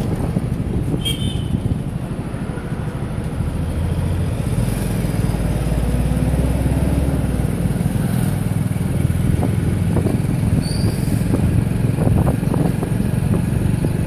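Motorcycle engine running while riding, under a steady low rumble of road and wind noise that grows a little louder a few seconds in. A brief high chirp sounds about a second in.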